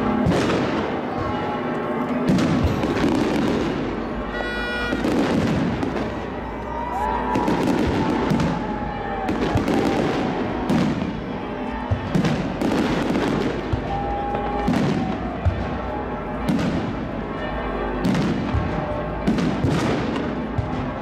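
Aerial firework shells bursting in a steady string of bangs, about one every second or two.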